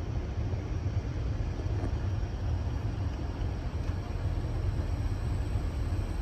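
Electric multiple-unit passenger train rolling slowly into a terminus platform, a steady low rumble.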